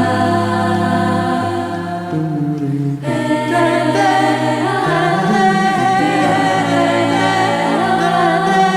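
An a cappella vocal group singing held chords in several voice parts, without instruments. The sound thins briefly about two to three seconds in, then a fuller chord comes in.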